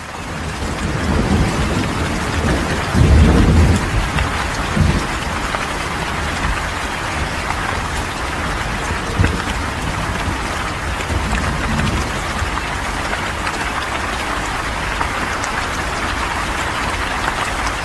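Heavy rain falling steadily, with low rumbles of thunder, the loudest about three seconds in.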